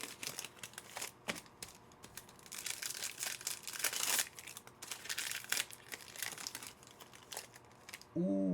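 Trading card pack wrapper crinkling and tearing in irregular crackles as it is pulled open, loudest about four seconds in. A man's voice starts near the end.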